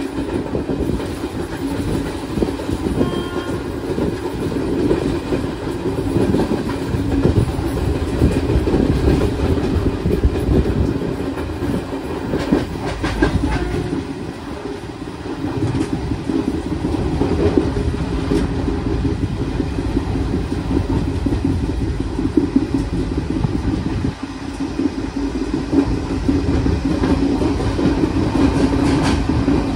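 Passenger train running at speed, heard from on board: a steady rumble of the wheels on the rails, with a few sharper clacks from the track.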